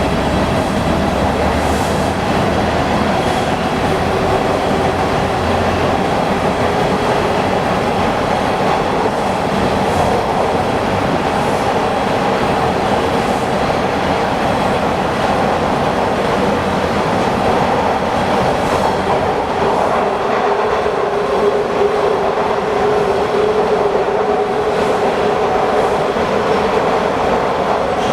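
Inside a TTC Bombardier T1 subway car running between stations: a steady rumble of wheels on rail under a steady whine, with a few faint clicks.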